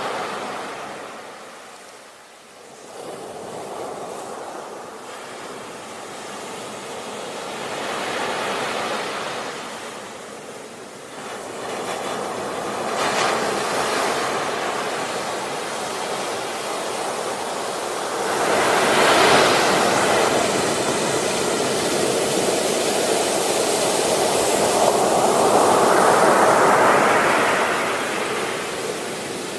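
Ocean surf: waves rise and fall in slow swells of hiss. The loudest swells come about two-thirds of the way through and again shortly before the end.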